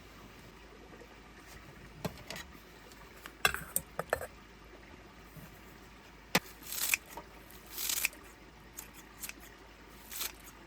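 Scattered small clicks, knocks and short rustles of objects being handled, irregular and unhurried, with two brief rustling hisses a little past the middle.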